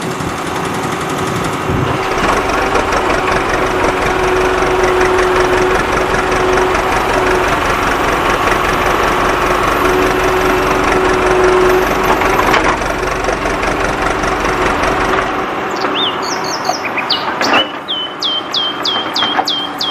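A small motor running steadily for about fifteen seconds, then a string of short, high chirps repeating about twice a second near the end.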